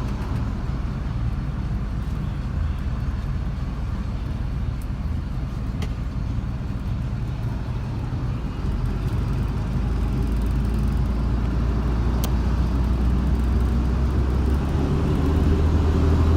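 Steady engine and road noise of a car on the move, a low rumble that grows a little louder over the second half.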